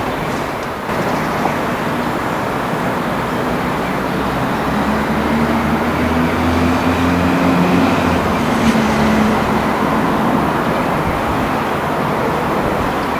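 Steady vehicle rumble with a low engine-like hum that swells about five seconds in and eases off after about ten seconds.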